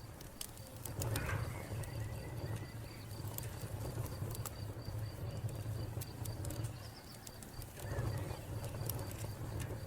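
A wood fire crackling, with scattered sharp pops over a low rumble. A cricket chirps in a fast, even pulse, and a bird calls faintly now and then.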